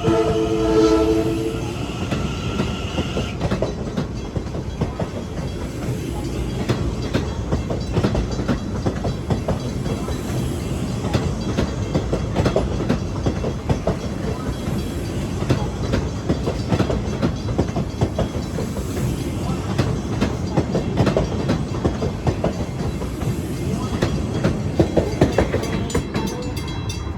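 Long Island Rail Road electric multiple-unit train giving a short horn blast about a second in, then running through the station with steady rail noise and the wheels clicking over rail joints.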